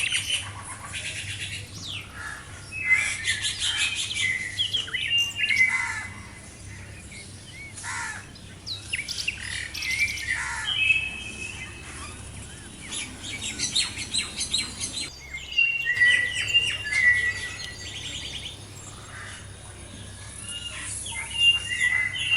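Several songbirds chirping and singing at once, with many short overlapping calls and trills; the calls break off for a moment about two-thirds of the way through.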